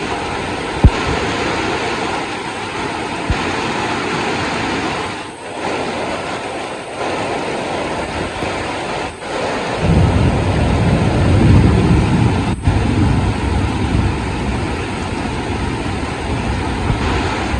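Heavy rain falling steadily as a dense hiss. Two short sharp knocks come in the first few seconds, and a deep low rumble swells about ten seconds in and lasts several seconds.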